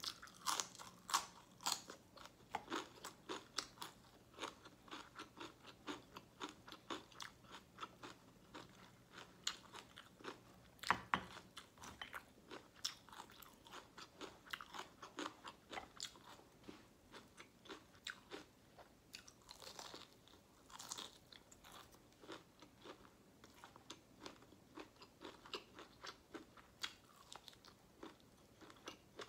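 Close-miked crunching and chewing: a raw celery stalk bitten and chewed, then bites of crispy fried chicken. A rapid run of sharp crunches that thins out later, with the loudest crunch about eleven seconds in.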